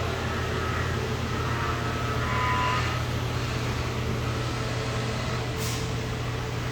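Steady low hum of running machine-shop equipment, with a brief faint tone about two and a half seconds in and a short hiss near the end.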